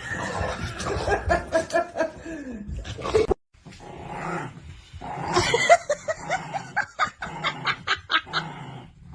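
A dog giving runs of short, pitched calls, several a second; the sound cuts off suddenly about three seconds in. After a brief gap a dog calls again in a quick series of short rising calls.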